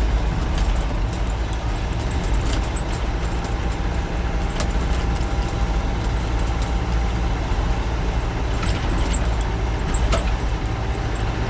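Land Rover 90's 300Tdi 2.5-litre turbo-diesel engine running steadily while driving, heard from inside the soft-top cab with its sides up, with road and tyre noise and scattered light clicks and rattles.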